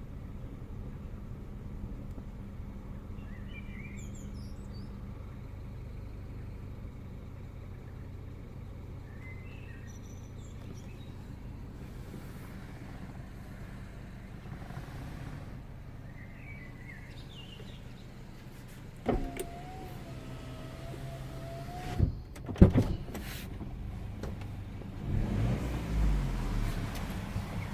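Peugeot RCZ 1.6 THP turbocharged four-cylinder petrol engine idling steadily during warm-up from cold, the stage when the owner's intermittent rough idle, with dips as if about to stall, appears. About two-thirds in, a short wavering whine and then a few sharp clicks, the loudest sounds. Near the end the engine note swells and shifts in pitch. Birds chirp faintly now and then.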